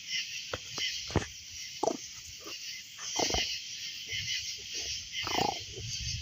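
Wood campfire crackling, with several sharp pops, over a steady high chorus of night insects; a few short animal calls, frog-like, sound around the middle and near the end.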